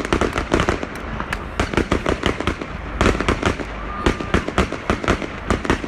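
Fireworks display: a rapid, uneven string of bangs and crackles, several a second, with no let-up.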